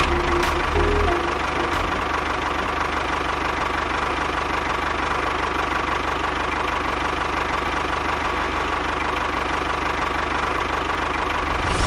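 Small motor of a mini model tractor running steadily, a continuous mechanical whir with a faint steady whine.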